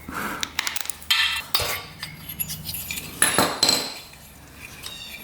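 Metal tools and parts being handled: a series of sharp metallic clinks and clatters, loudest about a second in and again about three seconds in.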